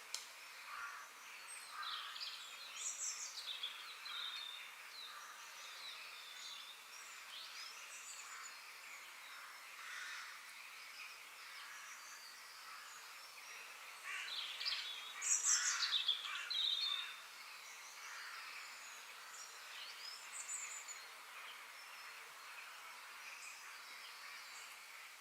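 Several birds chirping and singing over a faint steady background, with a louder burst of song about fifteen seconds in.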